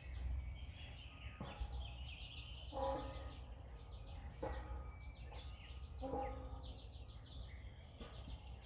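Songbirds singing and chirping all through, with three short, louder, lower-pitched calls about three, four and a half and six seconds in, over a steady low rumble.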